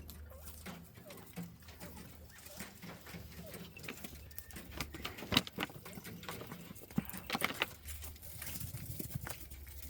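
Quail foraging: scattered light taps and scratches from pecking and scratching, with a few sharper clicks about halfway through and a cluster a couple of seconds later.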